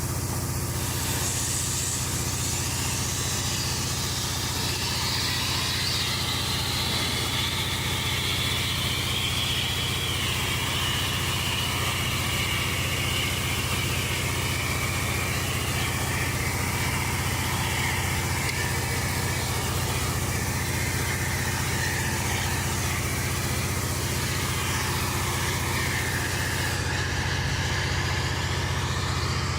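Engine idling steadily, a constant low hum, with a higher wavering hiss drifting slowly down and back up in pitch above it.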